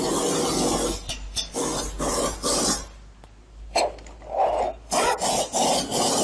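A steady hiss for about the first second, then a run of short rasping strokes, roughly three to four a second, with a brief pause about three seconds in.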